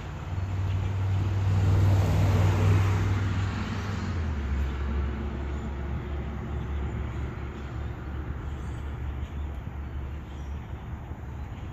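A motor vehicle's low engine drone, with a swell of road noise that peaks about two to three seconds in and then eases. The engine note drops a little about four seconds in and then holds steady.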